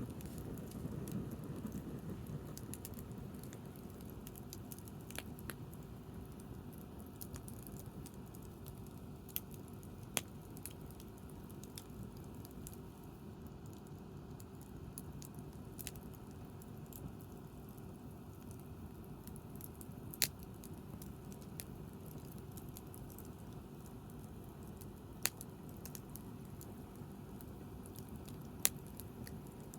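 Wood bonfire crackling, with scattered sharp pops over a steady low rush; a handful of pops stand out louder.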